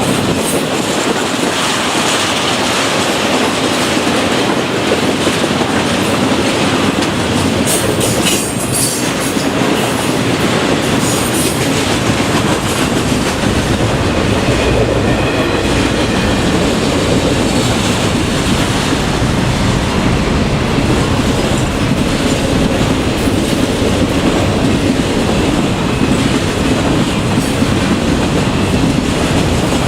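Norfolk Southern freight train cars rolling past: a steady, loud rumble of wheels on rail with clickety-clack over the joints. There are a few brief high-pitched sounds about eight to twelve seconds in.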